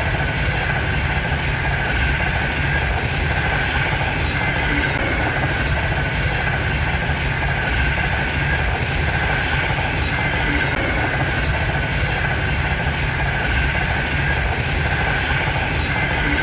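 Frecciarossa high-speed train running at speed, with a steady rumble and rushing noise that holds level without rising or fading.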